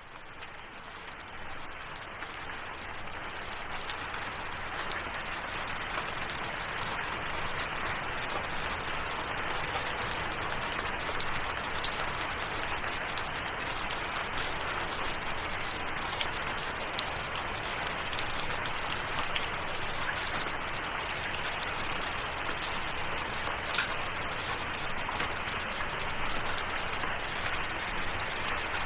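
Steady rain falling, with individual drops clicking through it; it fades in over the first few seconds, then holds even.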